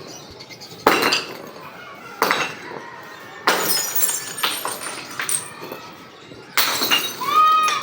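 Glass bottles cracking and shattering as they are crushed: four sharp breaks, each followed by tinkling shards.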